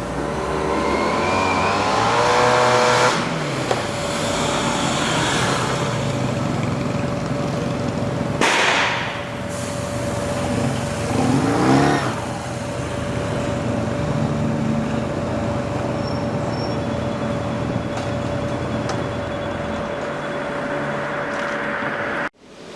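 A motor running with a steady hum, its pitch climbing briefly in the first few seconds and again about halfway, with a short loud noise in between.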